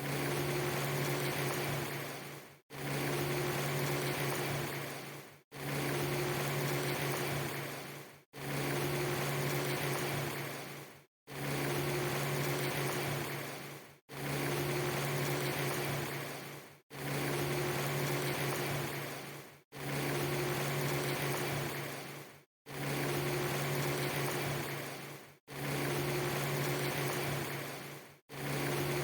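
A steady hiss over a low hum, a clip of under three seconds repeated about ten times, each repeat starting abruptly, fading at its end and followed by a split-second gap of silence: a short ambience loop played over and over.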